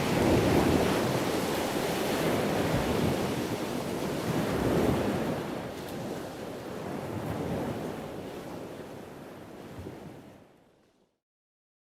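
Wind buffeting the microphone over the rush of the sea, swelling and easing unevenly, then fading out about ten seconds in.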